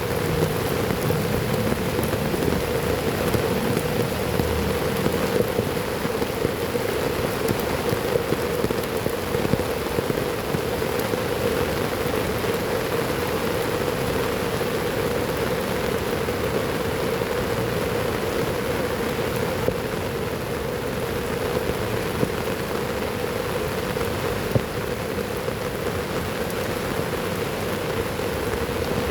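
Heavy rain falling steadily: a dense, even hiss of rain with many small, scattered drop hits.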